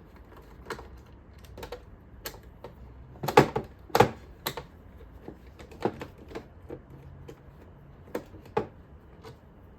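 Irregular small clicks and taps of a precision screwdriver and small metal screws against the plastic shell of an older iRobot Roomba as its screws are taken out, the loudest knocks about three and a half and four seconds in.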